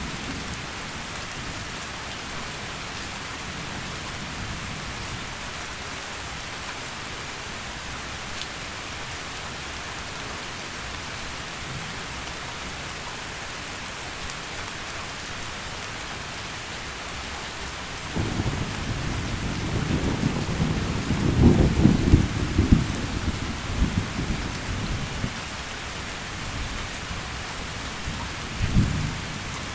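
Heavy rain falling steadily as a constant hiss. About two-thirds of the way in a rumble of thunder builds, peaks and dies away over several seconds, and a shorter low rumble comes near the end.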